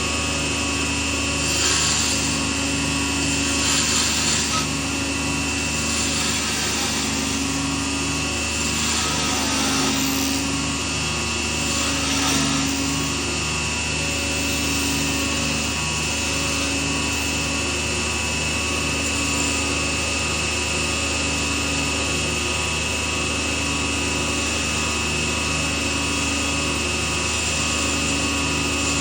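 Lathe running steadily, with scraping and rubbing passages from work on the spinning piece in the first half.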